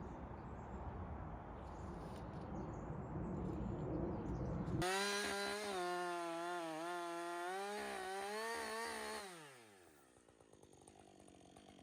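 Gas chainsaw: a rough, noisy cutting sound for about five seconds, then the saw running fast with a steady engine pitch that wavers slightly, before the pitch falls away as the engine winds down near the ten-second mark.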